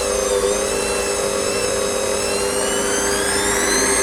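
Kenwood Chef Elite KVC51 stand mixer's motor running steadily with a high whine, rising a little in pitch near the end.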